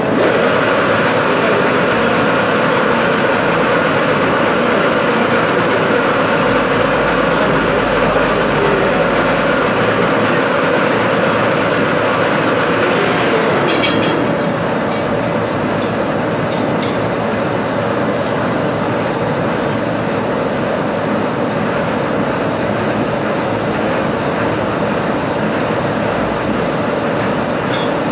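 Metalworking machine tool running steadily under load, a continuous mechanical noise of machining, with a few faint clicks about halfway through.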